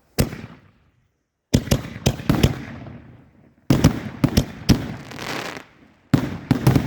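Rack-loaded aerial firework shells fired in quick succession: a single sharp report, then three tight clusters of loud launch and burst reports about two seconds apart, each fading out in a hiss.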